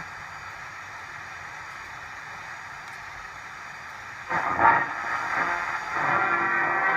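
Becker Avus vintage car radio's mono speaker giving steady FM static hiss between stations for about four seconds, then music comes in as a station is tuned in.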